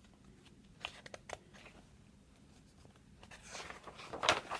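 Paper handling as a picture-book page is turned: a few small ticks about a second in, then a short rustle near the end.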